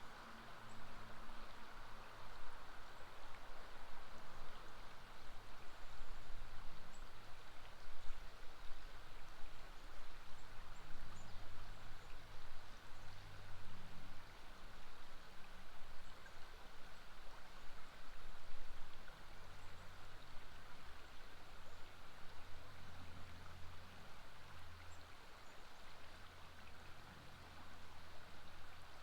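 Steady rush of flowing river water, with a low rumble underneath that comes and goes.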